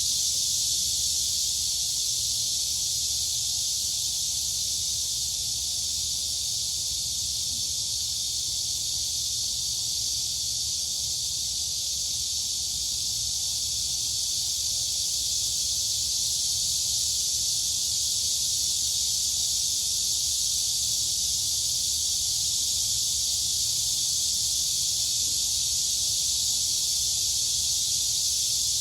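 Steady, dense chorus of crickets and cicadas, a high-pitched, unbroken shrill hiss with no pauses, over a faint low rumble.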